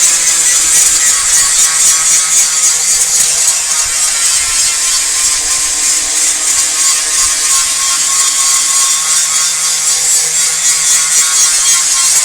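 Sanding on a car's body panel during dent repair: a steady, hissing grind that runs on without a break.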